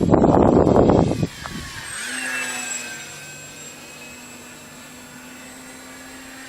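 Wind buffeting the microphone for about the first second. Then the high whine of an electric RC plane's Turnigy motor and propeller, which drops in pitch as the plane passes about two seconds in and goes on steady and fainter.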